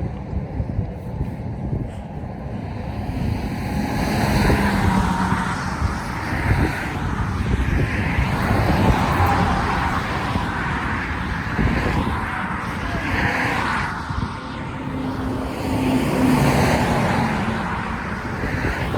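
Road traffic: cars passing one after another, the noise swelling and fading several times over a low rumble.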